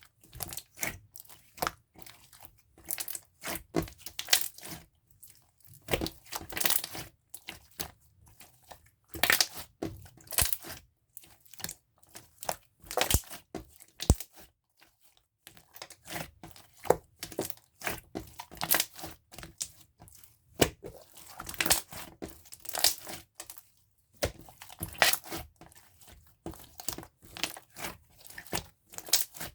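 Pink clear jelly-textured slime being squished and played with by hand, giving irregular sticky crackles and pops in clusters about every second.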